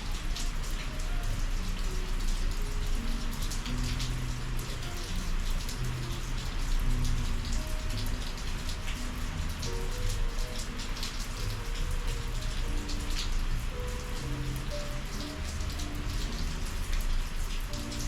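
Steady summer rain falling, with many separate drops striking close by as sharp little taps over the even hiss of the downpour.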